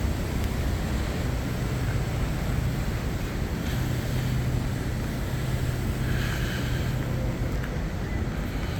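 Steady wind noise rumbling on the microphone, with a faint low steady hum underneath.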